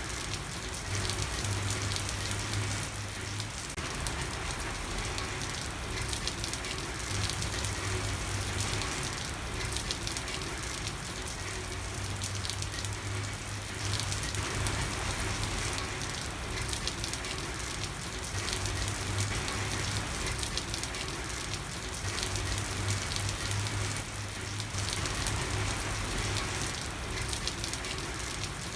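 Steady rain falling, an even dense patter of drops with no break. A low hum comes and goes every few seconds underneath.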